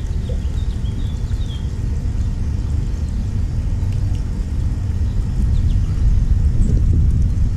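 Low, steady engine rumble of a vehicle, growing louder in the second half, with a few faint bird chirps in the first two seconds.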